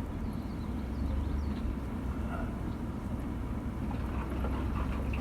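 A vehicle driving slowly over a rough field track, with a steady low rumble of engine and tyres.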